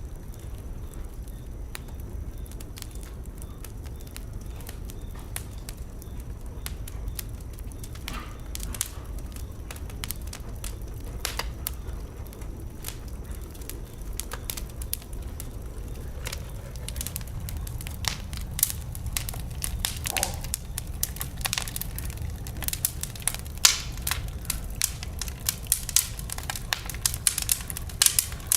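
Wood fire burning in a fireplace, crackling and popping over a low steady rumble of the flames. The pops come thicker and louder in the second half.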